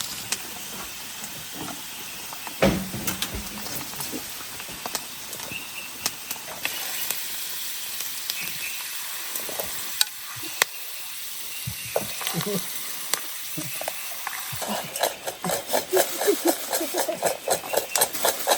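Food sizzling as it fries in hot oil, with scattered clicks and scrapes of a utensil stirring it and a heavier knock about three seconds in.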